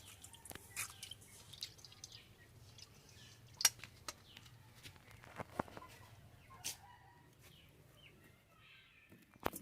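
Chickens clucking faintly, with a few scattered sharp clicks and knocks.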